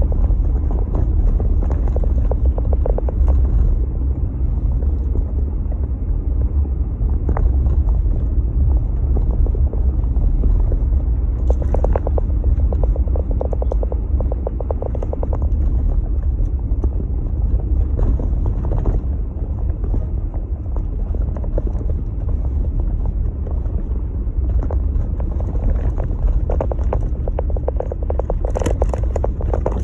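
Steady low rumble of a Jeep Gladiator, with scattered faint crackles.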